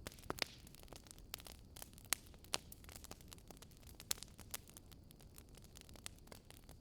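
Wood fire crackling: irregular sharp pops and snaps, a few louder than the rest, over a faint low hiss.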